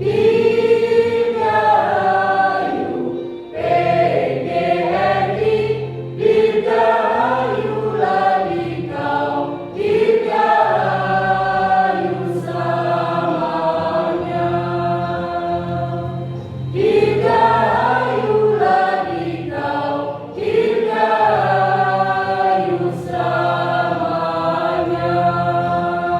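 Choir singing a song, the voices moving through long held phrases.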